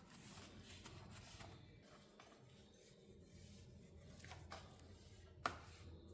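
Near silence with faint household handling sounds: soft rubbing and small scattered clicks, and one sharp click or knock near the end.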